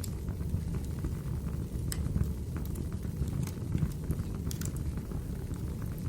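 Wood fire burning in a fireplace: a steady low rumble of flames with occasional sharp crackles and pops, one near the start, one about two seconds in and a small cluster around four and a half seconds.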